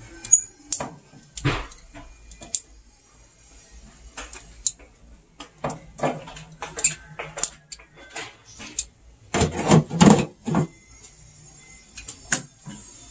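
Clicks, taps and rustling from hands and tools working on the washer's lid-switch wiring, twisting the wires together. There is a louder burst of clatter about ten seconds in.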